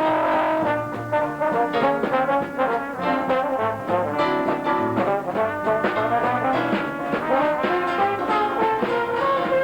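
Dixieland-style jazz band playing an instrumental passage, trombone and trumpet carrying the lead lines over banjo, string bass, drums and piano.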